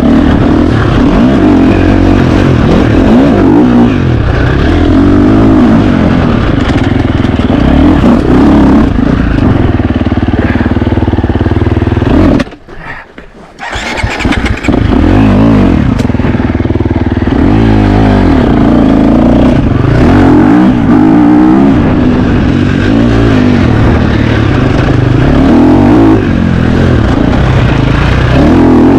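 2025 KTM 350 XC-F four-stroke single-cylinder dirt bike engine revving up and down under load as it is ridden off-road. About twelve and a half seconds in the engine sound drops away for about a second and a half, then it runs again.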